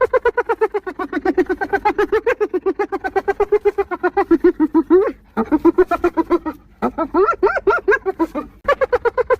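Spotted hyena laughing: a fast run of short, pitched giggling calls at about eight or nine a second, broken by brief pauses a little past five seconds, near seven seconds and near the end.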